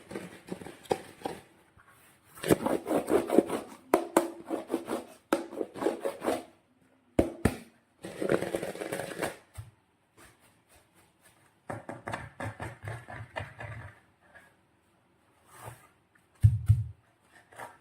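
Slime being worked by hand: bursts of sticky, crackling clicks lasting a few seconds each, with short pauses between them. A short low thump near the end.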